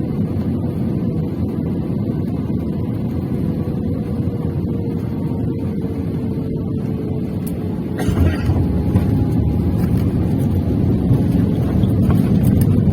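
Steady low rumble of an airliner's engines and airflow heard from inside the cabin, with a faint slowly falling hum; it gets louder about eight seconds in.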